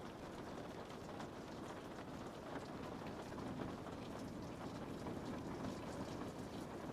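Steady rain falling on a window pane, a continuous soft patter with many small drop ticks scattered through it.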